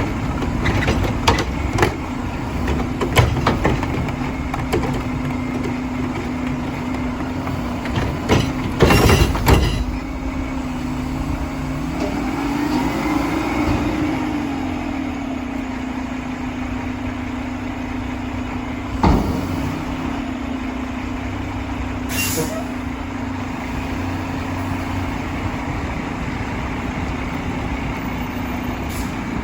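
Mack LR garbage truck running steadily while its automated can arm works, with a series of clunks and bangs, a louder burst of banging about a third of the way in, and a whine that rises and falls. A single sharp bang and a short air-brake hiss come later.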